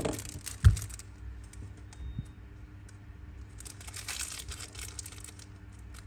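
Handling noise while a Zippo lighter is being handled: a sharp knock just under a second in, then faint rustling for about a second near the middle.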